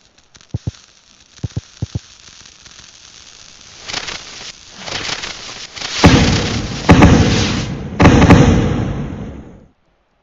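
Fireworks going off: a few sharp crackles, then a fizzing hiss that builds, with loud bangs about 6, 7 and 8 seconds in. The sound cuts off suddenly near the end.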